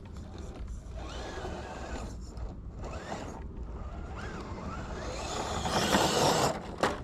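The electric motor and drivetrain of an RC rock crawler whine in short rising-and-falling pulses as the throttle is worked on a rock climb. About six seconds in there is a louder rough scraping burst of tyres and chassis scrabbling on the rock.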